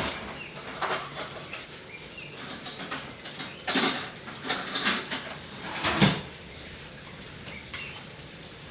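A series of irregular knocks and clatters, like objects being handled and set down, with the loudest ones about four to six seconds in.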